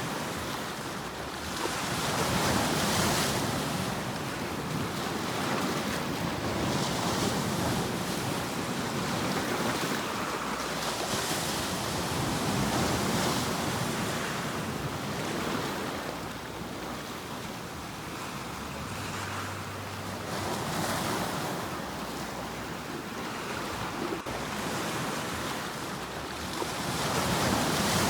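Sea waves breaking and washing in, a steady rush of surf that swells and eases every few seconds.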